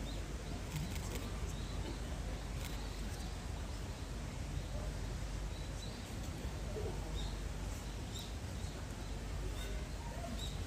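Outdoor background ambience: a steady low hum with faint, short, high chirps from small birds scattered through it, and a few faint sharp clicks in the first few seconds.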